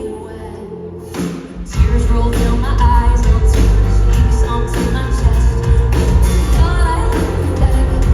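Live pop-rock band playing with a singer: a quieter passage, then the full band with drums and heavy bass comes in about two seconds in, the vocals carrying on over it.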